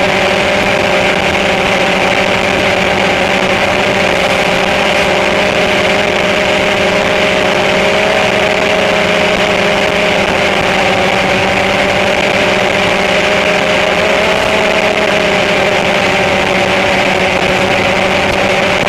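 Drone motors and propellers running steadily in flight, a constant whine made of several held tones over a hiss, with only slight wavering in pitch.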